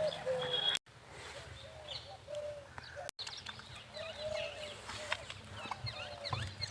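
A flock of small birds chirping busily, mixed with short lower calls. The sound cuts out abruptly twice.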